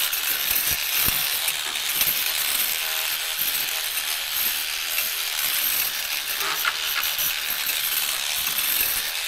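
Electric cleaning brush scrubbing soapy, foaming typewriter keytops: a steady hissing scrub.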